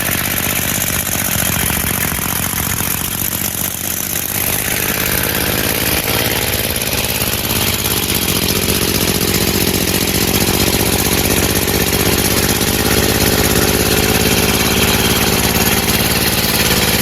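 Compressed-air engine running, its exhaust a fast, even stream of puffs. Its speed sags about three to four seconds in, then climbs and holds steady from about nine seconds on.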